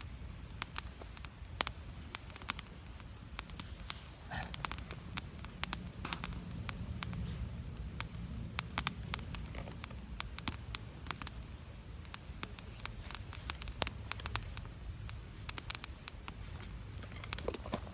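Wood campfire crackling, with many sharp, irregular pops and snaps over a low steady rumble.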